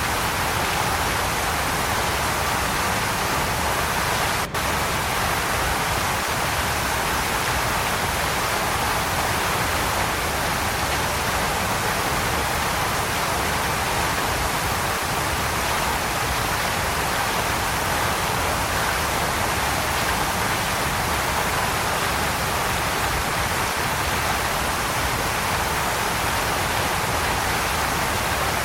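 Waterfall: water pouring steadily, an unbroken rushing noise at constant strength, with a split-second dropout about four and a half seconds in.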